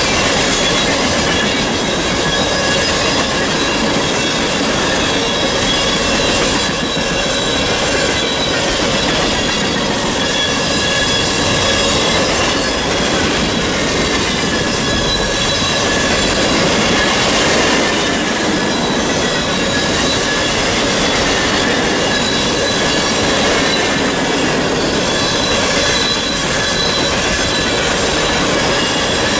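Empty coal cars of a Norfolk Southern freight train rolling past at close range: steady, loud wheel-on-rail noise, with several high squealing tones from the wheels that hold on throughout.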